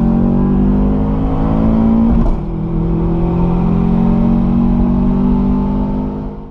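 Loud car engine held at high, fairly steady revs, with a brief break in its note about two seconds in; the sound cuts off abruptly at the end.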